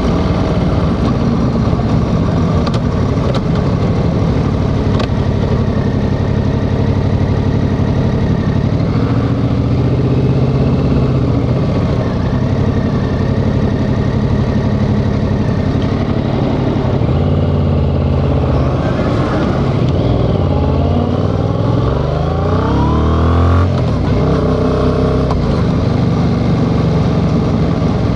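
Yamaha XSR700's 689 cc parallel-twin engine running under way. About two-thirds of the way in the revs climb steadily for several seconds, then drop suddenly as the rider shifts up, and the engine settles back to a steady run.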